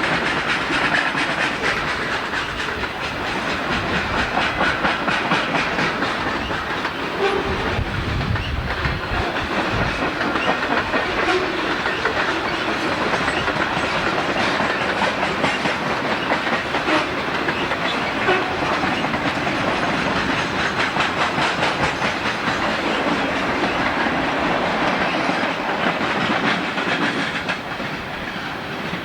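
Freight train cars rolling past close by, their wheels clattering steadily over the rail joints, with a deeper rumble for a couple of seconds about eight seconds in.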